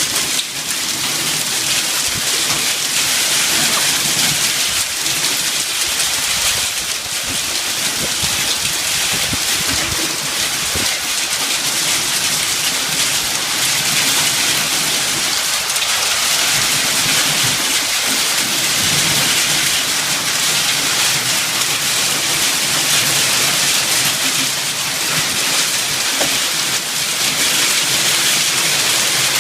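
Hailstones and heavy rain pelting down in a hailstorm: a dense, steady hiss of countless hits that keeps up throughout.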